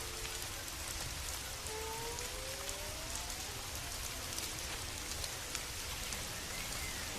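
Steady rain falling, with fine drop ticks over a low rumble. A faint rising tone sounds about two seconds in, and another faint tone rises and falls near the end.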